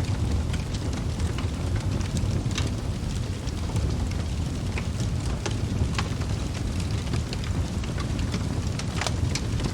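Wood fire burning in a fireplace: a steady low rush with sharp crackles and pops from the logs scattered irregularly throughout.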